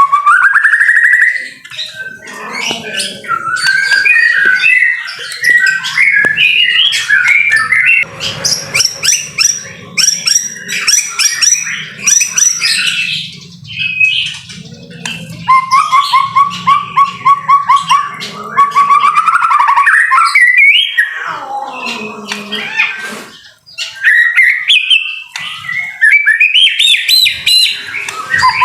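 White-rumped shama (murai batu) singing loudly and vigorously: a varied song of whistled phrases and chattering trills, including a fast run of repeated notes midway, broken by a couple of short pauses.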